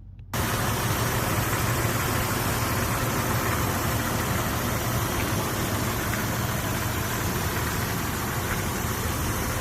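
A 1998 Mazda MPV's 3.0-litre V6 engine idling steadily. It cuts in abruptly a third of a second in.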